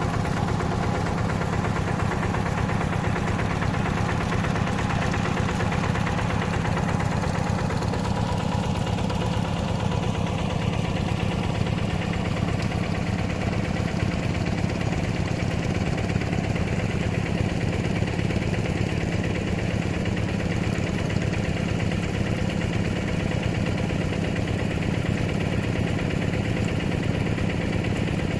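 Hand tractor's engine running steadily, with a rapid, even pulse of firing strokes.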